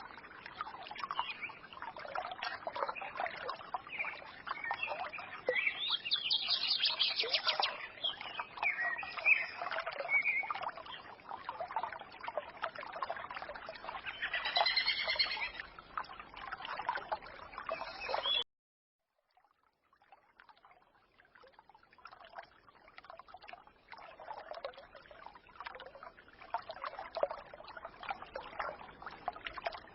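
A small forest stream babbling, with small birds chirping and twittering over it. About two-thirds of the way through, the sound cuts off abruptly for about a second; the stream then returns more quietly, with little birdsong.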